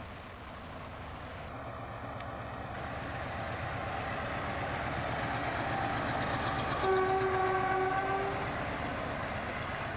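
Train running and growing gradually louder as it draws near, with its horn sounding for about a second and a half about seven seconds in; a fainter horn-like tone sounds briefly near the start.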